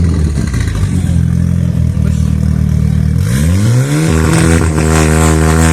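Drag-racing car engines revving at the start line. They hold at steady revs, then rise sharply about three seconds in and hold high, with a few brief cut-outs near the end.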